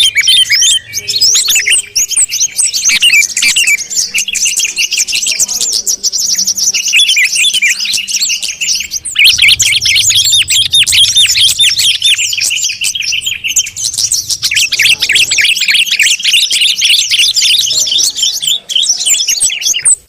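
A dense, continuous chorus of bulbul calls, yellow-vented bulbul (trucuk) and noisy sooty-headed bulbul (kutilang) mixed together: rapid overlapping chirps and short bubbling whistles. This is a combined call recording used as a lure for small birds.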